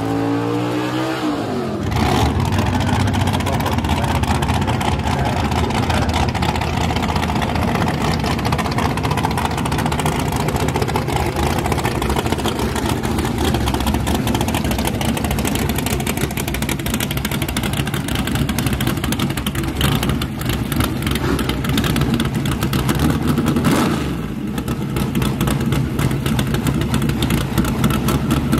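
Nitrous Chevy S10 drag truck's big-block V8: the revs fall away as a burnout ends, then it idles with a rough, rapid pulsing beat.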